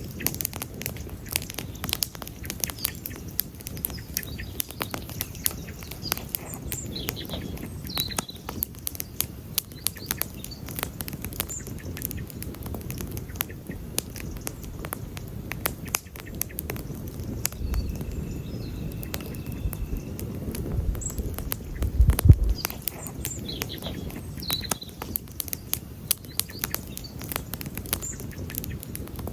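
Wood campfire crackling with frequent sharp, irregular pops over a steady low rumble, and one louder pop with a low thump about 22 seconds in.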